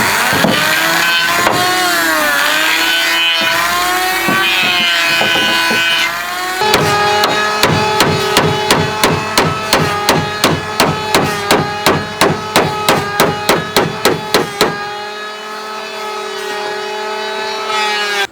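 Hammer blows on wood, about twenty in quick even succession (roughly two and a half a second) for some eight seconds, over a steady humming tone. Before the hammering, a wavering pitched sound rises and falls.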